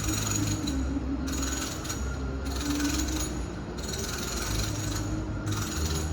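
Home renovation noise heard from a distant room: power tools rattling and grinding in stretches of a second or two with short gaps, over a steady low hum.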